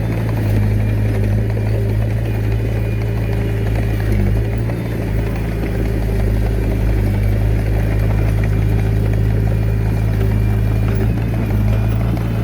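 Diesel engine of a Komatsu D21A mini bulldozer running steadily at a constant speed.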